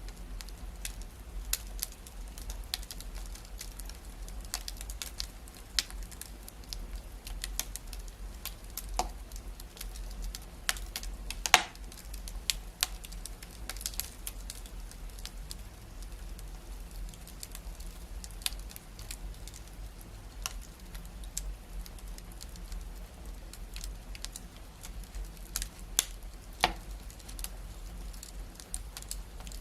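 Wood fire crackling in a fireplace: irregular sharp pops and snaps over a soft hiss, with one loud pop a little over a third of the way in.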